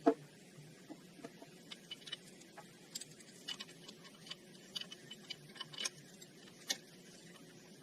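Light, irregular metallic clicks and taps of a socket and ratchet being worked by hand, a few per second, with one louder knock at the start.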